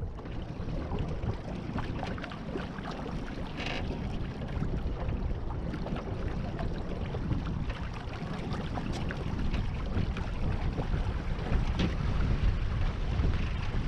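Water splashing and rushing against a small sailboat's hull, with wind rumbling on the microphone and a brief hiss of spray about four seconds in.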